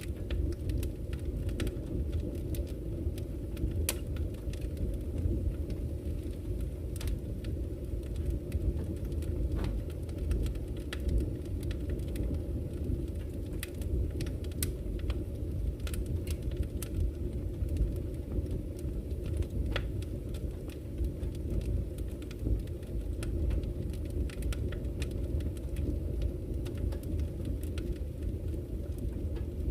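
Campfire crackling with scattered sharp pops, over a steady low rush of flowing river water.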